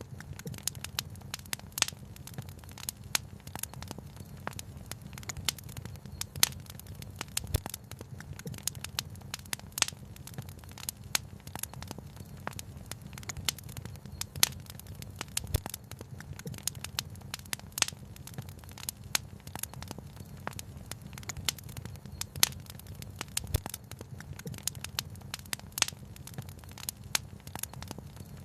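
Wood fire crackling steadily, with frequent sharp pops and snaps several times a second over a steady low rumble.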